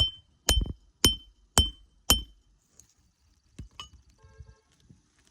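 Hammer striking a roof snake nailing tool to drive a roofing nail under a shingle: five sharp, ringing metal blows about two a second, followed by a couple of faint ticks.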